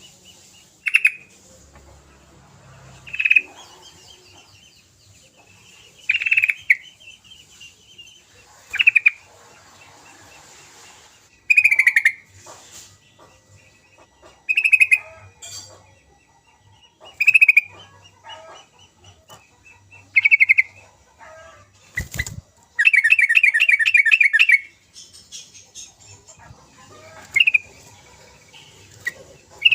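Yellow-vented bulbul (trucukan) calling: short loud bubbling notes every two to three seconds, with a sharp click about 22 seconds in followed by a fast chattering run of notes lasting about two seconds.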